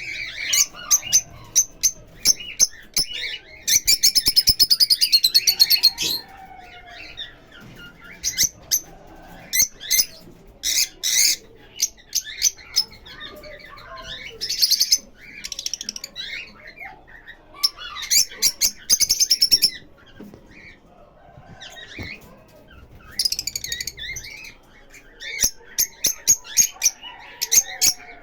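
Lovebirds chirping and chattering in sharp, high-pitched calls, with several fast runs of rapid chirps in between sparser ones.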